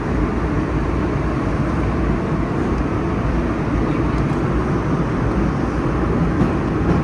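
Nostalgia subway train running along the track, heard from inside its rear cab: a steady, loud noise of wheels on rails and running gear.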